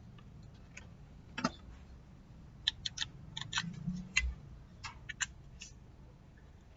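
Sharp clicks and taps of small plastic and metal electric-fan parts being handled and fitted together: one about a second and a half in, then a run of them over the next few seconds.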